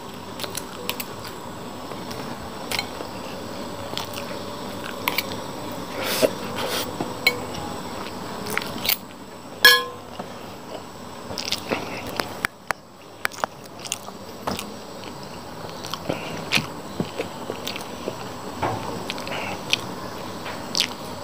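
Close-up chewing and mouth sounds of a person eating fried rice, with many small scattered clicks. Just before ten seconds in comes a sharp, ringing clink, as of the metal spoon set down on the glass plate.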